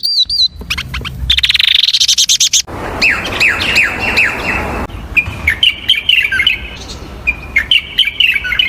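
Several different birds' calls cut one after another: a string of repeated arched whistled notes, a fast trill that rises in pitch, a series of falling slurred whistles, then choppy chattering notes.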